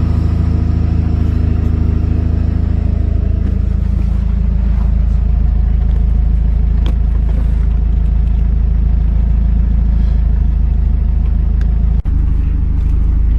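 Hyundai Genesis Coupe's built 2.0-litre turbocharged Theta four-cylinder idling steadily with a low rumble.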